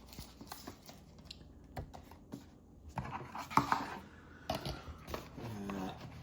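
Packaging and small parts being handled on a table: scattered light clicks and taps with brief rustling about three seconds in.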